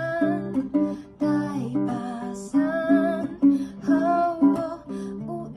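Acoustic cover of a pop song: a plucked string instrument, guitar or ukulele, strumming chords, with a voice holding wavering notes between the sung lines.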